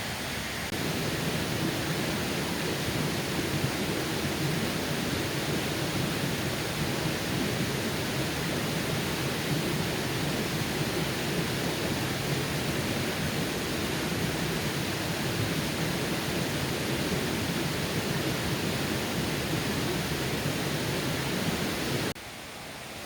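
Mountain valley stream rushing steadily; the sound drops off suddenly near the end.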